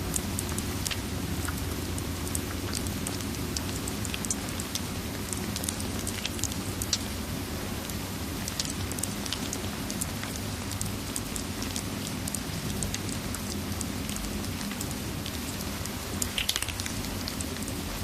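Layered ambience of steady rain and a crackling wood fire: a constant hiss over a low rumble, with frequent small sharp pops and a brief cluster of louder crackles near the end.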